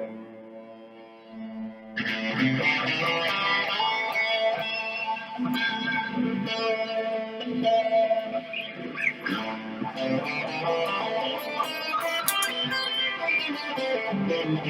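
Electric guitar played through distortion: a held note for about two seconds, then a louder passage of sustained, overdriven notes.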